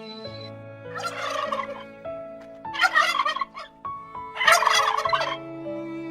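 A bird calls in three rattling bursts, about a second apart, over soft background music.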